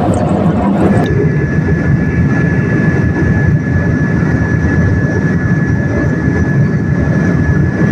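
Boeing 787 jet airliner noise, most likely heard from the cabin: a loud, steady rush of engine and airflow noise with a thin, steady whine above it. The sound changes abruptly about a second in.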